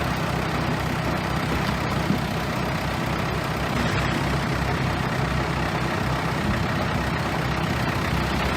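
Bulldozer's diesel engine running steadily at a constant level.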